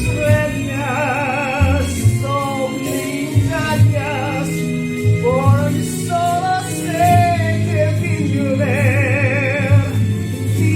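A ballad song: a voice sings long notes with a wide vibrato over a slow accompaniment with a sustained bass line.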